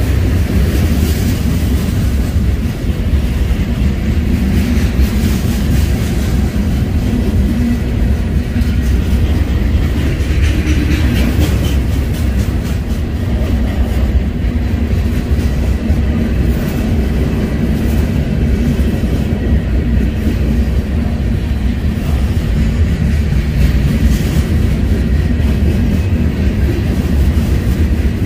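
Freight train rolling past trackside: a loud, steady rumble of cars on the rails, with clicking of the wheels over rail joints.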